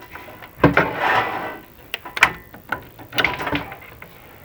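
Irregular knocks, clicks and short scraping rattles from chimney video-inspection camera gear as it is fed down a tile-lined flue. There are about half a dozen separate bangs and scrapes, the loudest about two thirds of a second and three seconds in.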